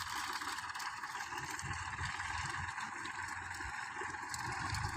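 Engine of a homemade jugaad tractor running steadily.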